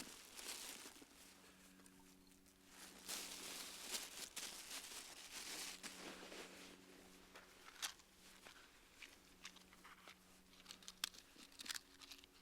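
Wood campfire burning: soft waves of hissing with scattered crackles and pops, the sharpest pop about eleven seconds in.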